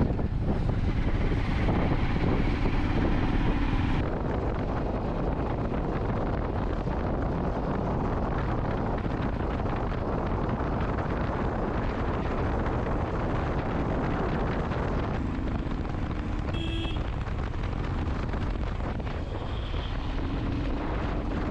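Steady wind buffeting the microphone over a running vehicle while travelling. A short high tone sounds once about three-quarters of the way through.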